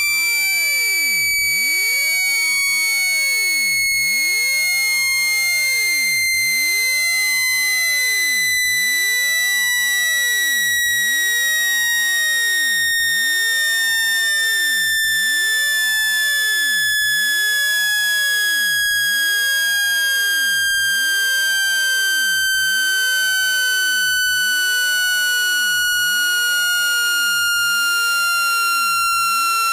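Continuous synthesized water-eject tone for clearing a wet phone speaker: a single high electronic tone with faint overtones, loud and unbroken, sliding slowly and evenly down in pitch.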